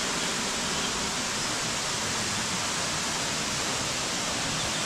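Steady rushing of Kursunlu Waterfall, mixed with heavy rain.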